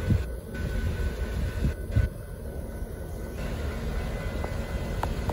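Autorack freight cars of a Kansas City Southern de México train rolling past with a steady low rumble and a couple of dull thumps, heard from inside a car.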